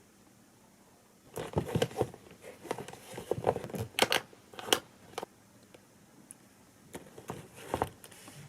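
A run of light clicks and knocks, starting about a second in, thinning out, then a few more near the end.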